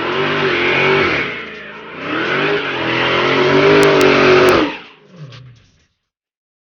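A car engine revving twice, its pitch climbing and falling on each rev, with a few sharp clicks during the second rev, then dying away.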